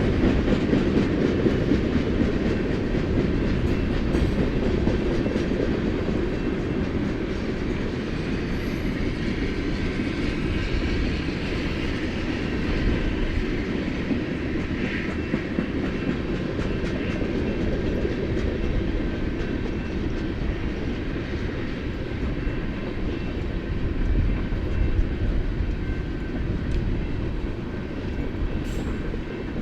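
A BNSF manifest freight train rolling past, its cars' wheels making a steady rumble on the rails.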